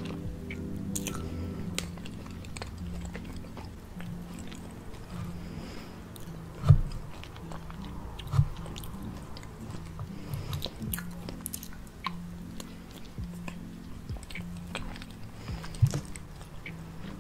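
Close-miked chewing of soft cake, with a wooden fork cutting through the cake and a few sharp knocks, the loudest about seven seconds in, over soft background music.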